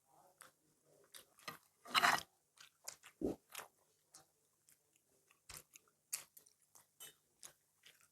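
Close-up eating sounds: chewing and biting with short crunchy bites and wet mouth clicks, one louder crunch about two seconds in.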